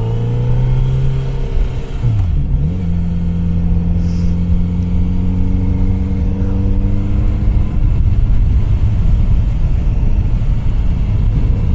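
Kawasaki Z900RS Cafe's inline-four engine running as the bike rides at low speed. About two seconds in the engine note dips and picks up again, then rises slowly as it pulls. Near the end the note gives way to a steadier low rumble.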